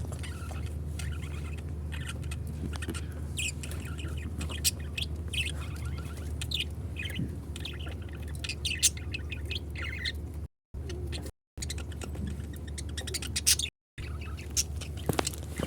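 Pet lovebirds chirping: many short, high chirps in quick irregular succession over a steady low hum. The sound cuts out abruptly three times in the second half.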